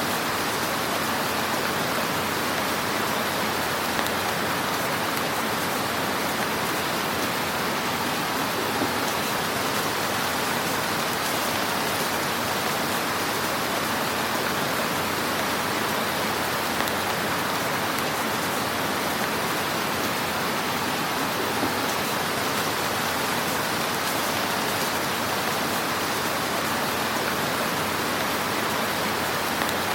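Fire in a fireplace burning with a steady soft hiss and crackle, with a few slightly louder pops here and there.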